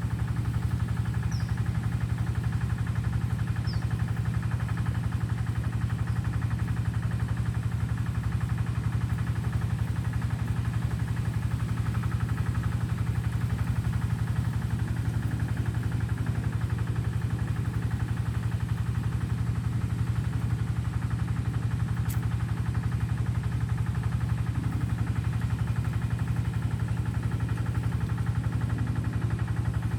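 A small engine or motor running steadily, a low even drone with a fast regular beat.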